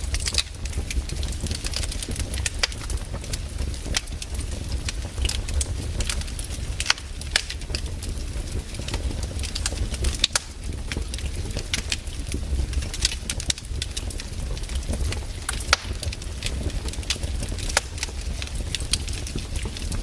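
Wood campfire crackling, with irregular sharp pops and snaps every fraction of a second over a steady low rumble of the burning fire.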